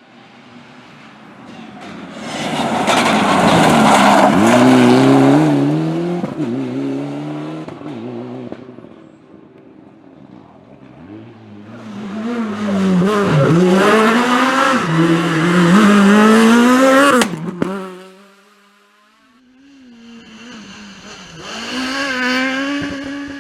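Rally cars passing at speed one after another, their engines revving hard and dropping back through gear changes as they come by. The second pass cuts off abruptly, and another car is heard approaching near the end.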